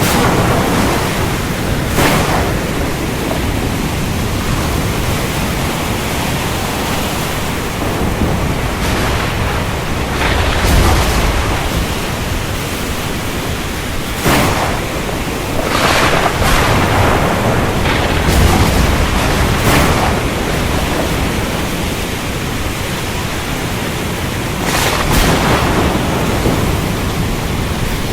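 Thunderstorm: steady heavy rain with low rolling thunder that swells about ten and eighteen seconds in, and several sharp cracks of thunder through the stretch.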